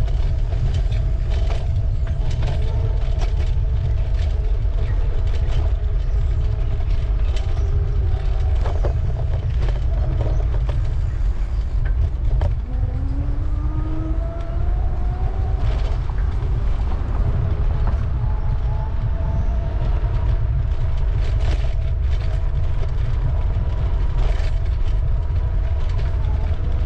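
City traffic heard from a moving bicycle, with a heavy steady rumble of wind and rolling noise on the microphone and scattered clicks and rattles. Steady whining tones run underneath, and about twelve seconds in a vehicle's motor whine rises in pitch as it pulls away, typical of an Amsterdam tram.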